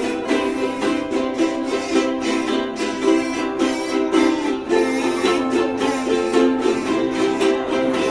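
Choir music with a hymn accompanied by strummed ukulele and guitar, the strings strummed in a steady rhythm under held sung notes.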